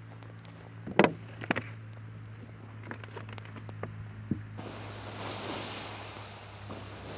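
A few sharp knocks and crackles, then about halfway through a sudden steady hiss sets in and slowly eases: water hitting a campfire's hot embers, putting the fire out.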